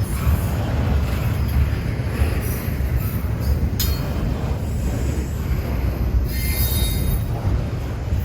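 Freight train rolling past, steel wheels rumbling on the rails, with a sharp click a little before the middle and a high wheel squeal about six seconds in.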